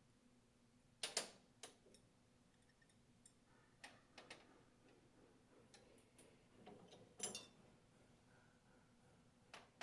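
A few scattered light clicks and clinks of metal hand tools and small pump parts being handled, the loudest about a second in and again just past seven seconds, with near silence between.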